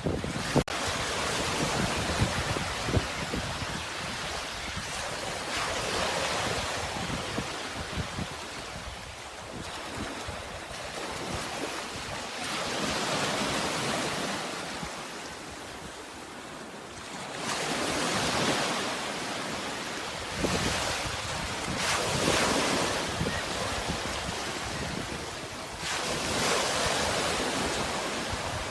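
Sea waves washing ashore, the rush of surf swelling and falling away about every four to five seconds.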